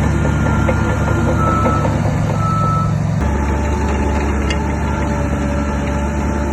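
Heavy earthmoving machine's diesel engine running with a reversing alarm beeping; the engine note changes about three seconds in.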